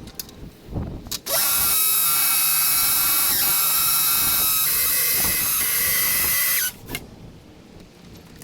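A power tool running steadily with a high whine for about five seconds, starting about a second in and stopping suddenly, with light clicks and knocks before and after.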